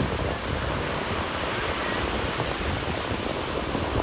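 Ocean surf breaking and washing in the shallows: a steady, dense rushing noise.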